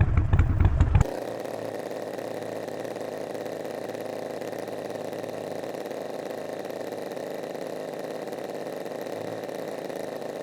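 Harley-Davidson Sportster 48's air-cooled V-twin through a Vance & Hines slip-on exhaust, loud and pulsing for about a second. It then cuts off abruptly to a steady, much quieter hum with no deep low end.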